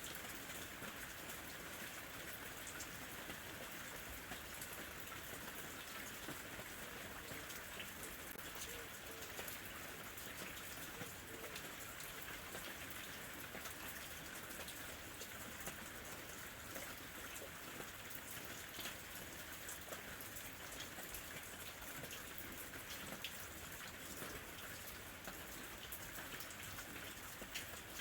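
Steady summer rain falling lightly, a continuous hiss of rainfall with many small individual drop ticks on a surface.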